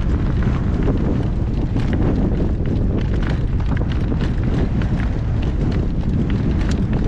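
Strong wind buffeting the microphone, with a horse's hoofbeats sounding over it in a repeated clip-clop.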